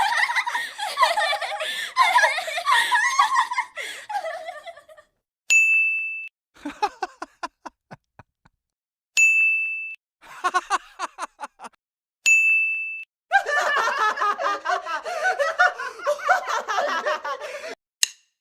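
A run of separate laughter sound-effect clips, each introduced by a short bell-like ding: a stretch of several people laughing together, two shorter bursts of quick rapid laughing, and a longer stretch of group laughter, with brief silences between them.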